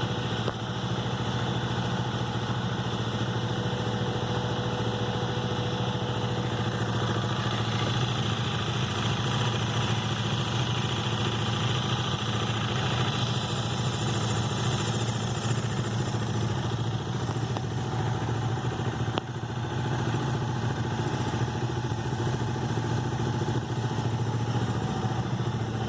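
Bajaj Dominar 400's single-cylinder engine idling steadily, its radiator cooling fan running with a high, shrill whine that fades out about fifteen seconds in.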